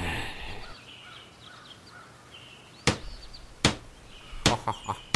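Several sharp knocks or clicks, unevenly spaced, starting about three seconds in and bunching up near the end, over faint high chirps.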